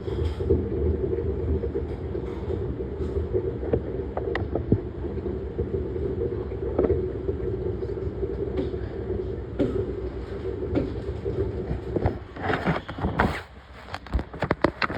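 Washing machine running with a steady motor hum and occasional light knocks. Near the end the hum falls away and a few seconds of clattering and rattling follow.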